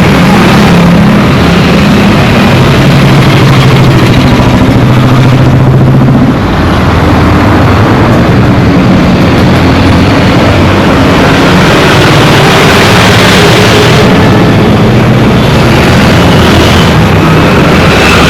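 Dense road traffic: several vehicle engines running under a constant wash of traffic noise.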